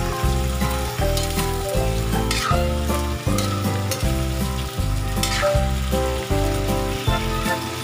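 Shrimp sizzling in a hot wok as they are stirred, with a few sharp scrapes of the utensil against the pan. Background music with a steady bass line runs underneath.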